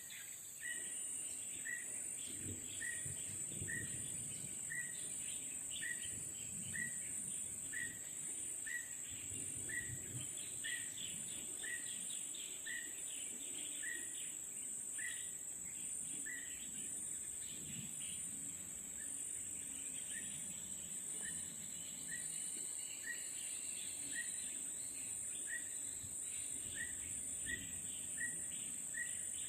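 Many birds calling together, with one bird repeating a short chirp about once a second and other varied chirps over it, against a steady high-pitched insect drone.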